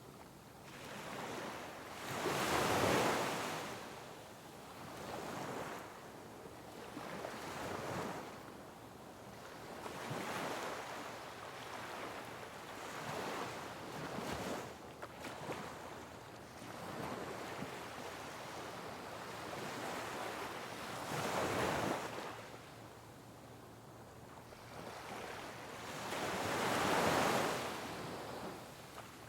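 Sea waves breaking on rocks, each surge swelling into a hissing crash and draining away. The biggest crashes come about three seconds in, around twenty-one seconds and near the end, with smaller ones between.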